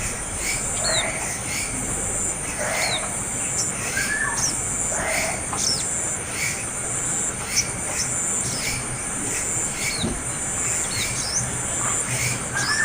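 A young bird begging for food: short, high, falling chirps repeated about once a second, over a steady high hiss.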